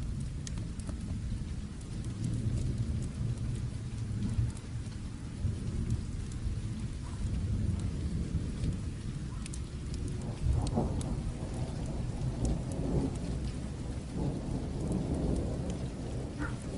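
Steady rain with a low, rolling rumble of distant thunder that swells in the second half, dotted with scattered sharp crackles.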